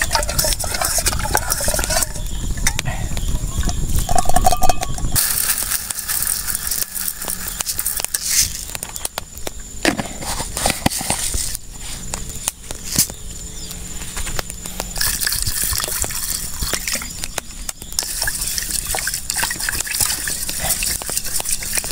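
Camp cooking sounds: liquid sloshing and splashing with scattered clicks and knocks of pots and utensils. A louder low rumbling fills the first five seconds, and a steady high-pitched tone runs underneath after that.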